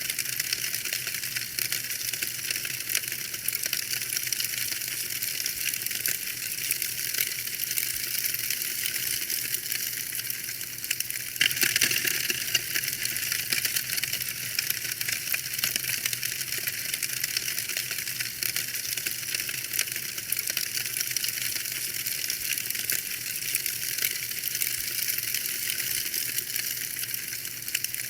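Wood fire crackling in a fireplace: a dense, continuous run of small pops and snaps that grows a little louder about eleven seconds in.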